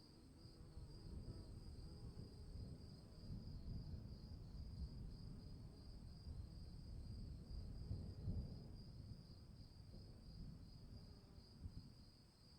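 Crickets chirping in a steady, fast-pulsing chorus, with a fainter higher-pitched insect tone above it. A low rumbling noise underneath swells toward the middle and fades near the end.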